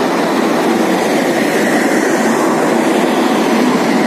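Broad-gauge passenger coaches rolling into a station platform, a steady loud noise of steel wheels running on the rails.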